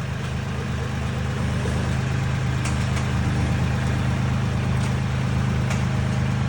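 Tractor engine running steadily at a low idle, slowly growing a little louder, with a few faint clicks.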